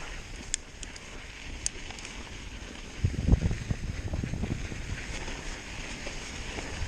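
Hardtail mountain bike riding a rough dirt trail, with wind rushing over the microphone. There are a few sharp clicks in the first two seconds, then from about three seconds in a louder run of low thumps and rattles as the bike goes over rough ground.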